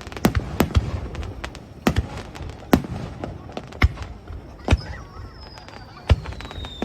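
Fireworks display: a string of sharp bangs at irregular intervals, some close together. About two-thirds of the way through, a long falling whistle starts and runs under the bangs.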